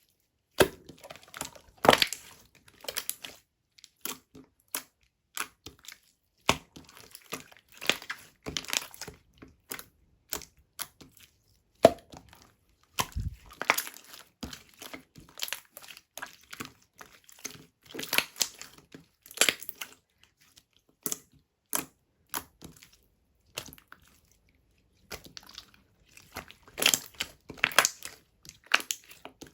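Strawberry yogurt slime being squeezed and folded by hand, giving irregular crackling clicks and pops in clusters with brief pauses.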